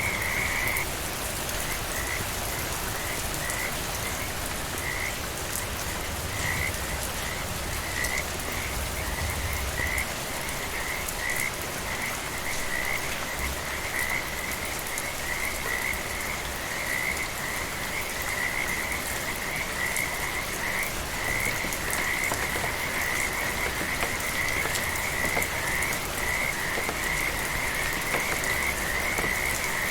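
Frogs calling in chorus over steady gentle rain: short croaking calls repeat at one high pitch. They are spaced out at first and run together into a near-continuous chorus from about halfway through.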